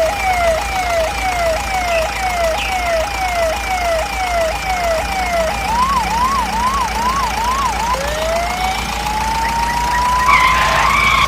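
Electronic siren cycling through its patterns: quick falling sweeps about two a second, then a rising-and-falling yelp, then a slow rising wail near the end. A brief rough burst of noise comes about ten seconds in.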